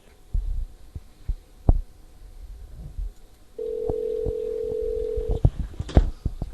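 Telephone handset clicks and knocks, then a steady telephone line tone held for about two seconds past the middle, followed by a quick run of clicks.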